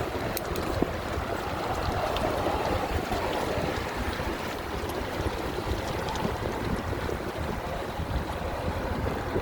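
Steady rushing wind noise on the microphone, with a few faint ticks.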